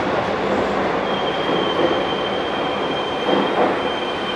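A Keihan 5000 series commuter train pulls out of an underground station and runs off into the tunnel with a steady rumble. A thin, high wheel squeal sets in about a second in, and a couple of louder knocks come a little after three seconds in.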